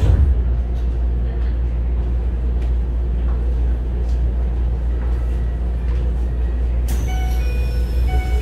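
Inside a stopped Keisei 3000-series commuter car with its doors open: a steady low hum from the car's equipment. About seven seconds in, a sharp click and a chime of several steady tones as the doors start to close.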